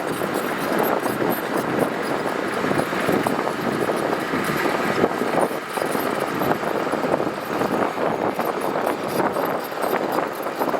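Heavy earthmoving machinery working gravel: a diesel engine running under load with dense, continuous clattering and crunching of gravel and metal.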